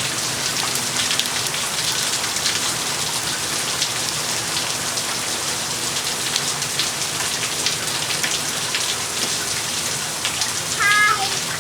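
Steady rain falling and pattering on hard surfaces, with many separate drops ticking through it.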